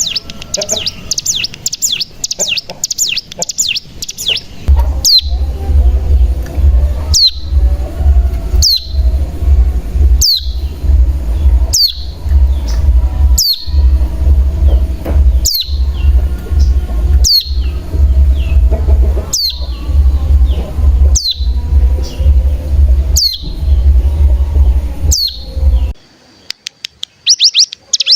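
Ciblek gunung (cigun) bird calls: a fast, high chattering trill, then one sharp down-slurred call repeated about every second and a half over a steady low hum, and the fast trill again near the end.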